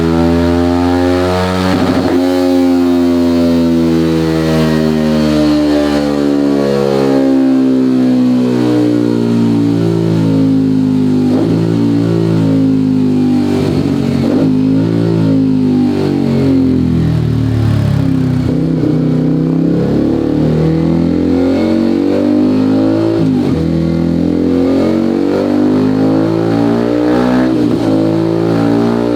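Sport motorcycle engine running through an EvoX STD aftermarket exhaust with its Easy DB Killer baffle removed. It is held at steady revs that slowly rise and fall.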